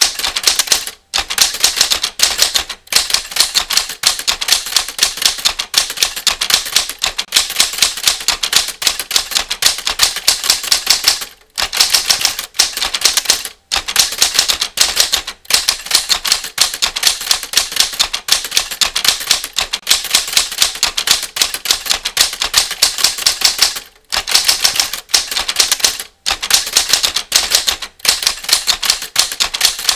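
Typewriter keystroke sound effect: rapid runs of key clacks as text is typed, stopping briefly a few times between runs.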